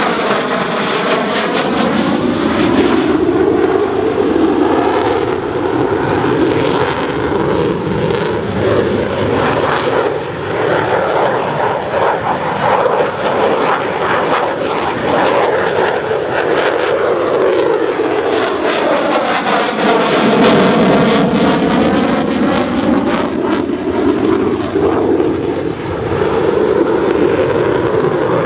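Jet noise of an F-16C Fighting Falcon's single turbofan engine as the fighter flies a tight, high-G turn. The noise swells twice as the jet sweeps close by, loudest about twenty seconds in.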